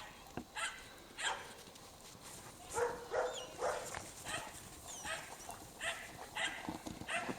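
Norwegian Elkhounds barking, about a dozen short barks in an irregular run with a short pause around two seconds in.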